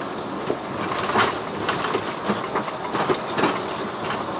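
Tata Daewoo Prima cargo truck driving on the road: steady engine and road noise with frequent short clattering rattles.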